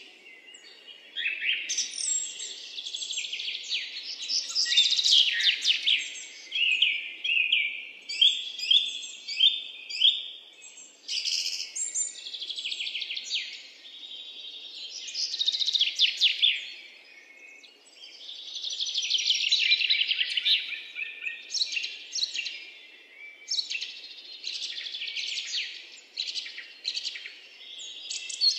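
Birdsong: a dense run of quick, high chirps and trills that swells and fades in loudness.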